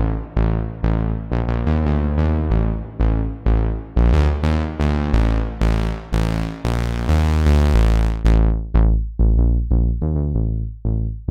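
Waldorf Pulse 2 analog monosynth playing a bass preset: a repeating line of short plucked notes, about two to three a second, each decaying quickly. About four seconds in the filter opens and the notes turn much brighter, then close back down to a duller tone after about eight seconds.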